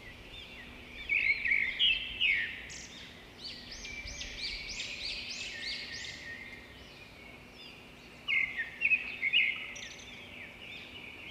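Birds chirping and singing, with a quick run of repeated rising-and-falling chirps in the middle, over a faint steady hum.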